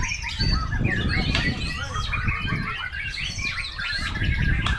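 White-rumped shamas (murai batu) singing, several songs overlapping in quick chirps and whistles over a low rumble of background noise.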